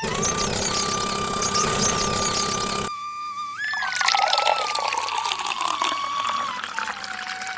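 Water gushing from a mini water pump for about three seconds, stopping sharply, under flute-like background music that carries on throughout.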